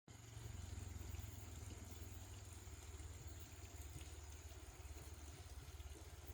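A machine running: a faint, steady low rumble.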